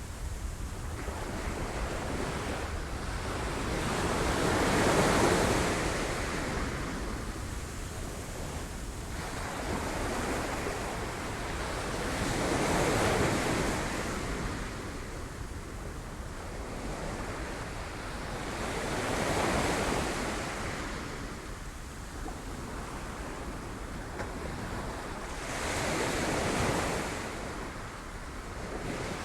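Sea waves breaking on rocks. Four big surges swell up and fall back, about six to seven seconds apart, over a steady wash of surf.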